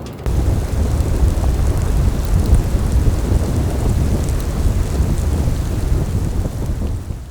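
Stormy wind rumbling on the microphone with a steady hiss over it. It starts suddenly and fades out at the end.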